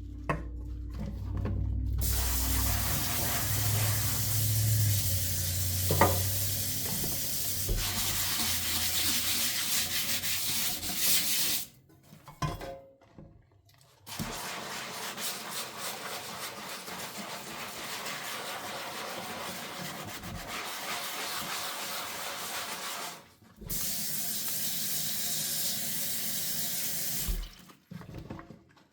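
Kitchen tap running into a sink during hand dishwashing, a steady rush of water that cuts out for a couple of seconds and comes back, then breaks off twice more briefly. A low hum sits under the water for the first several seconds, with a single click along the way.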